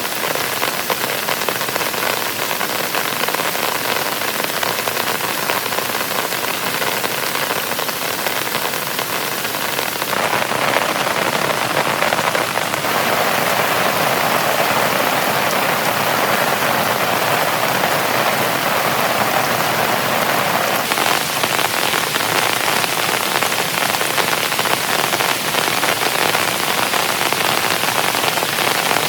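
Heavy rain falling steadily, a dense hiss of many drops. About ten seconds in it abruptly becomes louder and fuller, and it shifts again slightly around twenty seconds in.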